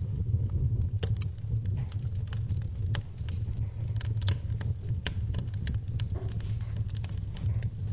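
Wood fire crackling in a fireplace: irregular sharp pops and snaps over a steady low rumble, with rain pattering behind it.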